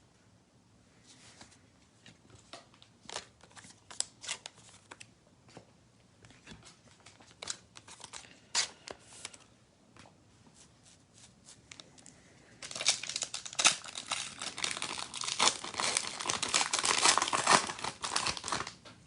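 A trading-card pack torn open, its wrapper crinkling and rustling for about six seconds, louder than anything else here and starting about two-thirds of the way in. Before that come scattered soft clicks and crinkles of cards and packaging being handled.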